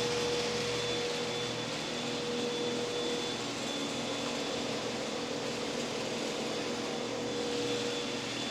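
Steady hum and hiss of building ventilation, with a couple of faint constant whining tones under it and no change in level.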